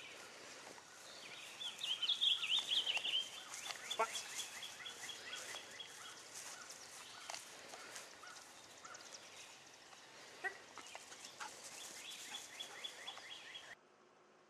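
Wild birds calling in quick series of short repeated chirps over faint outdoor hiss, loudest about two seconds in and again near the end, where the sound cuts off suddenly.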